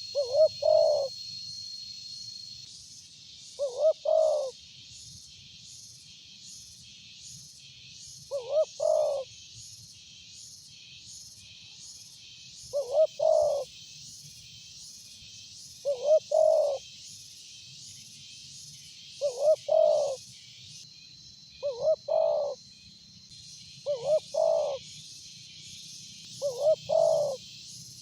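Spotted dove cooing: a short phrase of two or three low notes, repeated about every three to four seconds. Beneath it runs a steady, high, fast-pulsing buzz.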